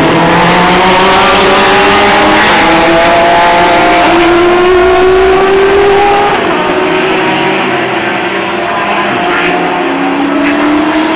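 Several race cars running at speed, their engine notes overlapping and slowly rising in pitch as they accelerate. The sound is loudest for the first six seconds or so, then eases off as the pack draws away.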